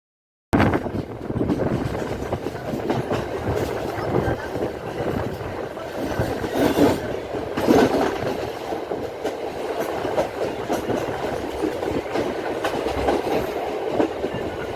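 Local passenger train running on the rails: continuous wheel and carriage noise that cuts in abruptly about half a second in, swelling louder for a moment in the middle.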